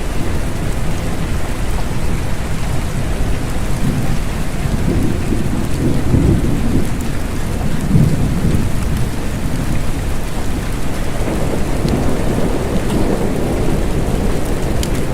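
Steady rain falling, with low rolling thunder that swells twice: a few seconds in, and again near the end.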